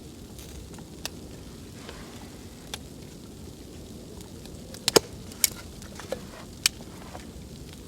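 Wood fire crackling: a steady low rumble with scattered sharp pops, the loudest bunched about five seconds in.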